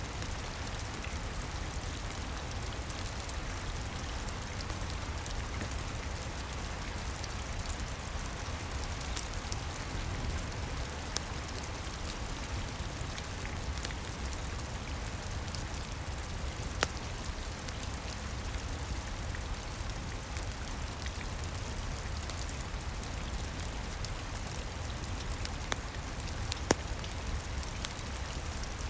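Steady rain heard from indoors, with the occasional sharp pop of a crackling wood fire, the loudest pops about 17 seconds in and near the end.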